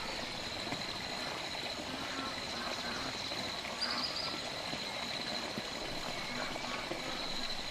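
Steady rain falling, an even hiss, with a continuous high-pitched whine over it and a brief chirp about four seconds in.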